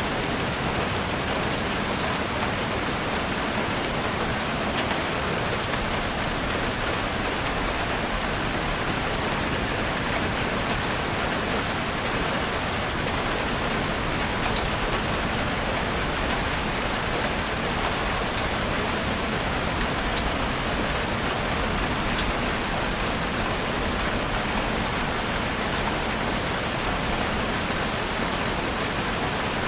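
Heavy rain falling steadily on a roof: a dense, even hiss with scattered sharp ticks of single drops.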